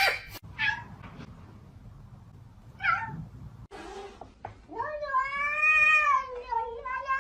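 Domestic cat meowing: a few short meows, then one long drawn-out meow that rises and falls in pitch.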